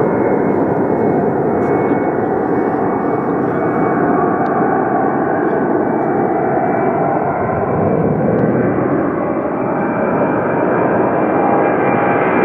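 Jet airliner's engines at takeoff power: a steady loud roar with a thin high whine above it.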